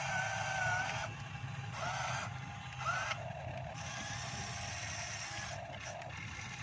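Electric motors of a remote-control long-reach Sumitomo S280 excavator model whining as the boom and bucket move. The pitch wavers and cuts in and out, with a short rising whine about three seconds in.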